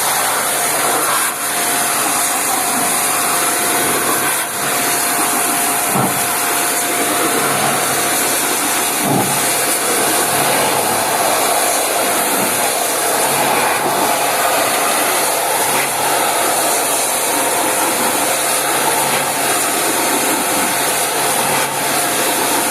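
Electric pressure washer running steadily, its water jet giving a loud continuous hiss, as used to wash down a window air conditioner, with a few faint knocks.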